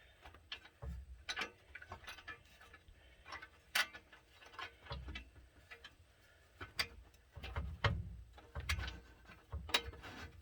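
Irregular metallic clicks and clinks with a few dull knocks, from hand work on exhaust bolts and nuts under a truck.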